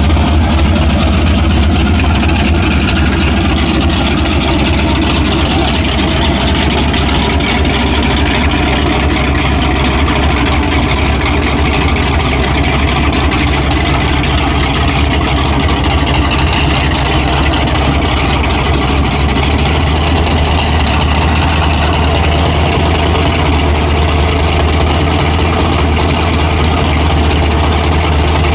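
Drag-race car engines idling loudly and steadily at the starting line, with no revving. The cars are modified Fox-body Ford Mustangs.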